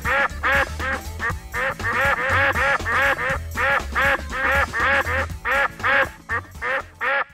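Duck quacks in a fast run, about two or three short quacks a second, over background music with a steady bass.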